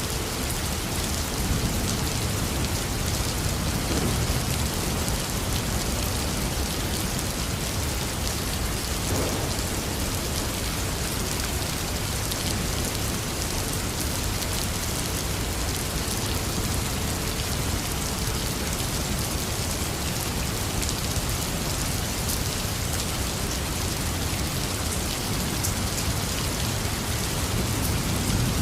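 Heavy rain falling steadily, a dense patter of drops on a hard surface, with a low rumble of thunder swelling near the end.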